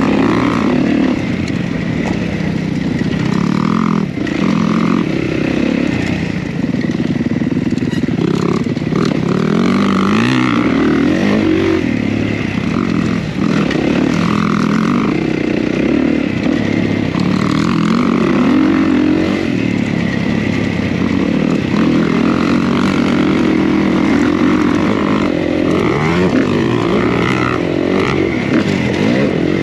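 Kawasaki KX450 four-stroke single-cylinder dirt bike engine being ridden hard, revving up and falling back again and again as the throttle is opened and shut.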